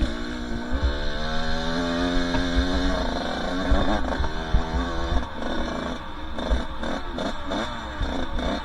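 Two-stroke dirt bike engine under way on a trail. It holds a steady pitch for about three seconds, then revs rise and fall quickly and repeatedly with the throttle.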